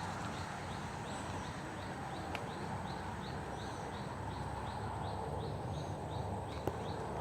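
A bird repeating one short high chirp over and over, about two or three times a second, over a low rumble of wind on the microphone.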